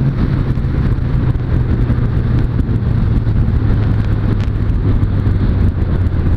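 Suzuki Bandit 600S motorcycle's inline-four engine running under way at a steady cruise, its note easing slightly lower, over wind rush.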